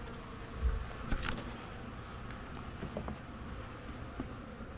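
Honey bees buzzing in a steady low hum around the hive, with a low bump about a second in and a few faint clicks.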